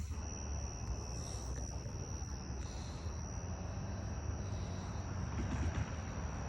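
Distant diesel locomotives of a coal train, a steady low rumble as the train works up a grade, growing a little louder near the end. A steady high insect chirring runs over it.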